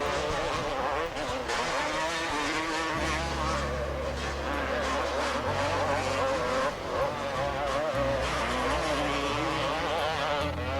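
Several two-stroke motocross bikes racing, their engines revving up and down through the gears, with overlapping whines that rise and fall.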